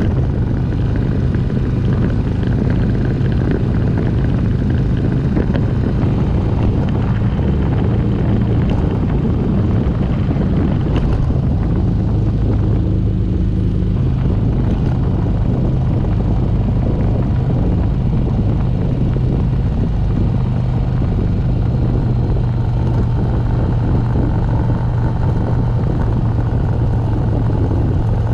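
Motorcycle engine running steadily at cruising speed under wind rush, as heard from the bike while riding; the engine note shifts slightly a few times.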